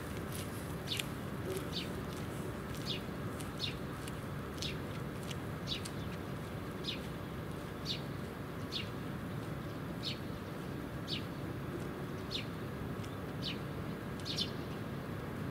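A small bird chirping over and over, a short high note about once a second, against a steady outdoor background hum.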